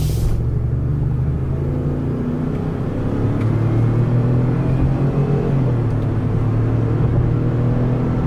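Ford Expedition's 3.5-litre EcoBoost twin-turbo V6 pulling under acceleration: a steady low engine drone that climbs slightly in pitch and grows louder over the first few seconds, then holds.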